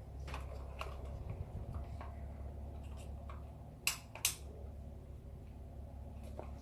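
Mondial Maxi Power 40 cm wall fan running with a steady low hum, with two sharp clicks a little under four seconds in.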